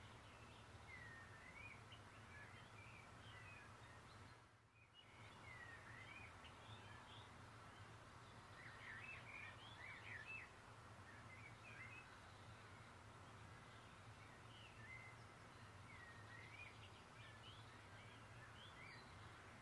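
Faint birdsong: many short chirping and whistled notes, rising and falling, from several small birds over a steady background hiss and low hum. The sound briefly drops out just before five seconds in.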